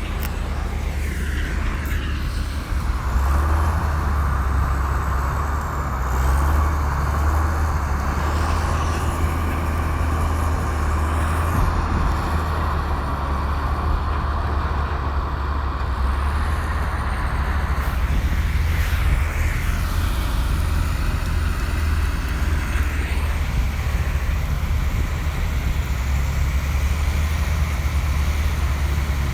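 Komatsu bulldozer's diesel engine working steadily with a deep drone, and a higher-pitched whine over it from about three seconds in until about eighteen seconds.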